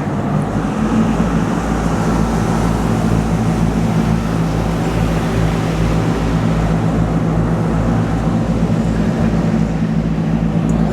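A motor boat's inboard engine running steadily underway: a steady low hum with an even low pulsing beneath it.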